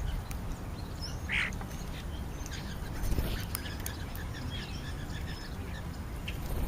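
Birds calling at a feeding spot, typical of European starlings: one short, louder call about a second in, then a quick run of about eight short chirps, with scattered high whistles and clicks over a low steady rumble.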